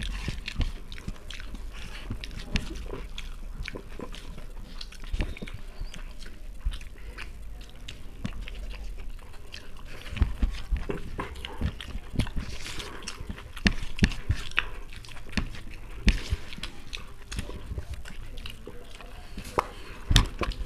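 Two people chewing and smacking their lips while eating chicken biryani with their hands, with many small irregular clicks and ticks.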